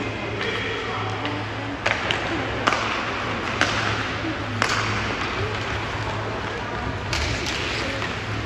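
Ice hockey play in a rink: a handful of sharp clacks of sticks and puck hitting, over a steady low hum, with faint voices and music in the background.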